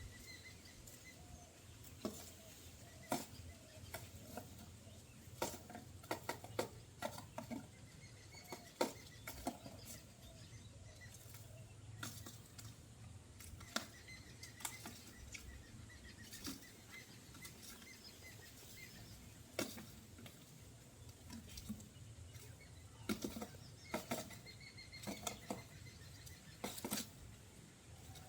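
Birds moving about: scattered taps, scratches and flutters, with faint short chirps here and there.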